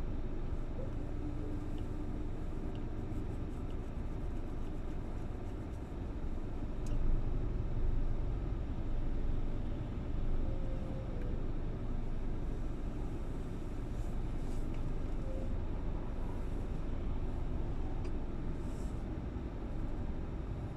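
Steady low rumble of a car on the move: engine and road noise, with a few faint clicks.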